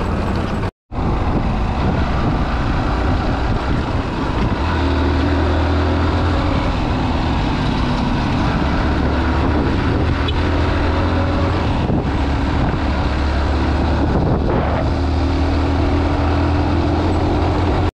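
A motor vehicle driving, its engine and road noise making a steady low drone. The sound cuts out completely for a moment about a second in.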